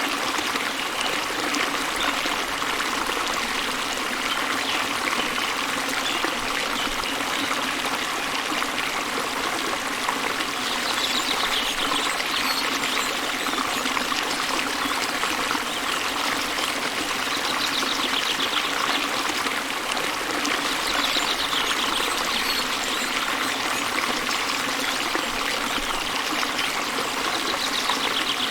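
Waterfall splashing into a gently flowing river, a steady rush and babble of water. Brief high bird trills come through a few times.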